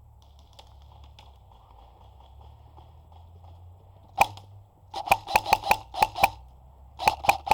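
Airsoft gun firing: a single shot about four seconds in, then a quick string of shots at about four or five a second, and another string near the end.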